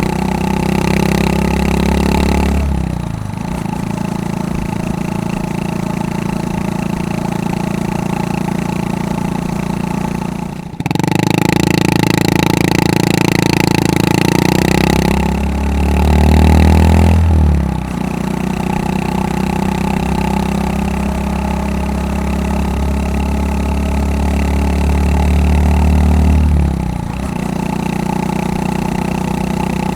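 Honda Super Cub 110 (JA59) single-cylinder four-stroke engine running through a Takegawa P-SHOOTER aftermarket muffler while riding. The exhaust note drops and picks up again at several gear changes, with a brief cut just before the middle and a short rise in revs a little past the middle.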